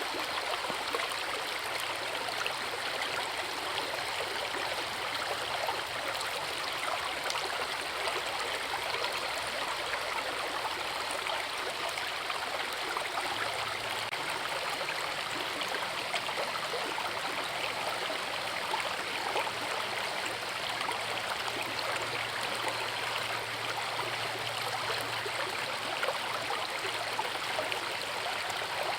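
Forest river rushing steadily over rocks, an even, unbroken sound of flowing water.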